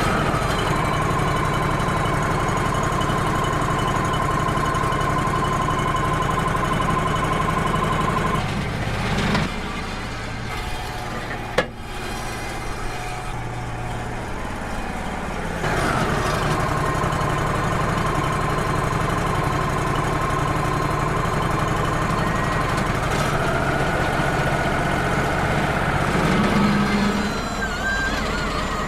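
Wood-Mizer LT35 hydraulic portable sawmill running, its engine and band blade giving a steady hum with a high whine. The run eases off for several seconds in the middle, with one sharp click, then picks back up.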